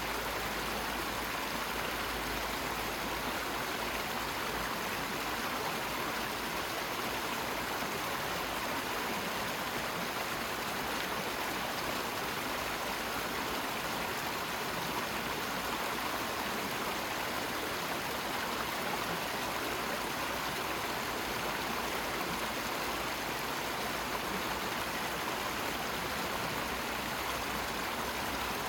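A steady, unbroken rush like a waterfall or fast stream, even in level throughout.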